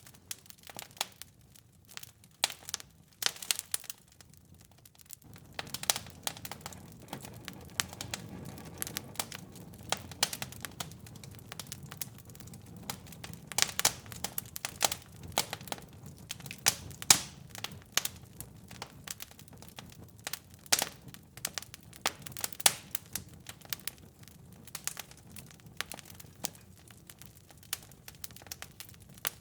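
Wood fire in a fireplace crackling and popping with irregular sharp snaps. A low steady rumble of the flames comes in about five seconds in.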